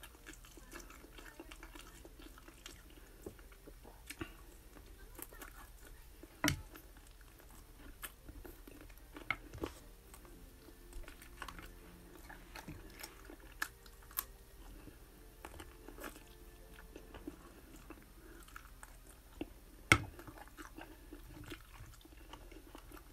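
A person chewing and biting into chicken wings up close, with small crunches and wet mouth clicks. There are two sharper, louder knocks: one about six and a half seconds in and one near the end.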